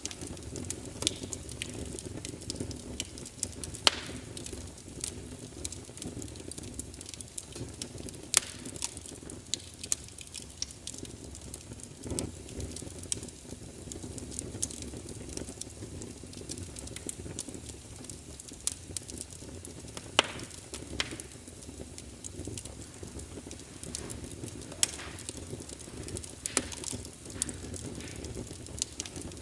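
Wood fire burning in a fireplace: a steady low rumble of flames with scattered crackles and a few louder pops and snaps.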